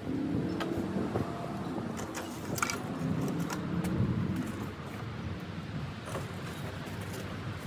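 A motor vehicle engine running steadily, with a few light clicks and knocks over it.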